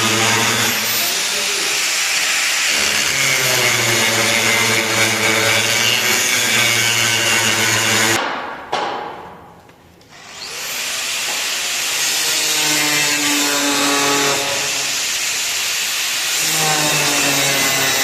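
Electric power tool, most likely an angle grinder, running loudly and steadily while working metal. About eight seconds in it is switched off and winds down, then it is started again and spins back up to speed.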